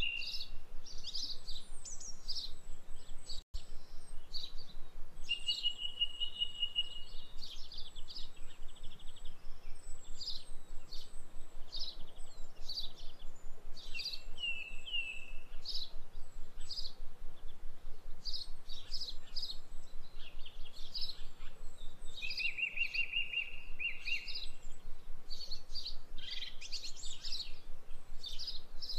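Birds chirping and twittering: many quick, high chirps throughout, with a few short trills, broken by a brief dropout about three and a half seconds in.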